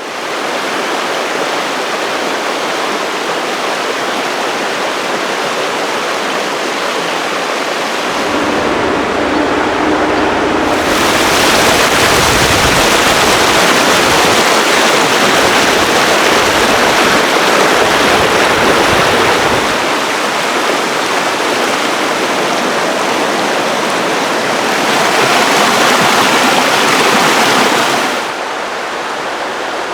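Steady rushing of running water, growing louder about a third of the way in and easing off just before the end.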